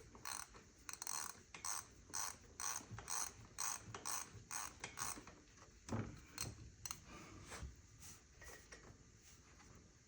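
Socket ratchet wrench clicking in quick back-and-forth strokes, about three bursts a second, as bolts are worked loose under the hood. The clicking thins out and fades in the second half, with one knock about six seconds in.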